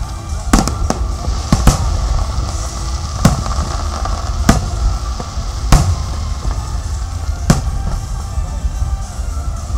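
Aerial fireworks bursting in a display: about seven sharp bangs at uneven intervals, over a constant low rumble, with music playing underneath.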